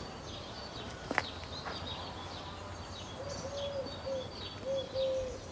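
Garden birds chirping, with a dove's low cooing phrase repeating from about three seconds in. A single sharp click sounds about a second in.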